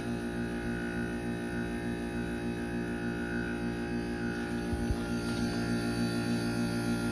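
Trane XR13 heat pump's outdoor unit running in defrost: a steady humming drone with many overtones, one of them pulsing several times a second, and a short low thump about five seconds in.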